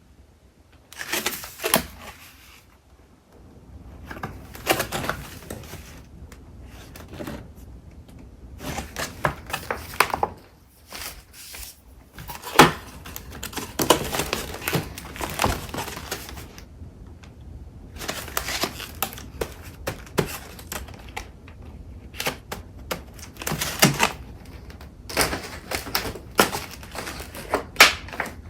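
Paper crafting supplies being sorted by hand: sheets and packets shuffled and rustled in irregular bursts, with sharp clicks and light thuds as items are picked up and set down, and brief pauses between.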